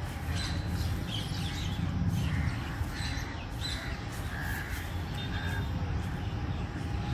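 Birds calling: a string of short calls, roughly one every second, over a steady low rumble.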